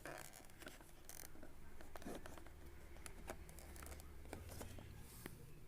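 Faint, scattered clicks and scratches of small objects being handled, over a low steady hum.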